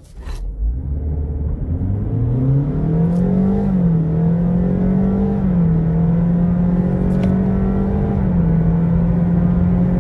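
Honda Vezel e:HEV's 1.5-litre engine and drive at full throttle from a standstill: the engine note climbs over the first three seconds or so, then holds at a nearly steady pitch with small dips as the car keeps accelerating, over a constant rumble of road noise.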